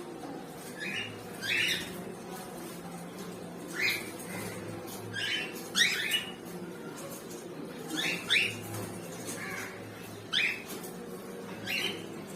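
Pineapple conure (a green-cheeked conure colour form) giving short, sharp squawks, often two in quick succession, about ten across the stretch, over a faint steady hum.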